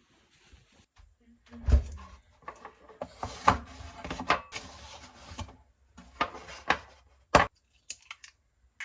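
A series of irregular knocks and clicks, as of things being handled and set down, the loudest about two seconds in and again near the end.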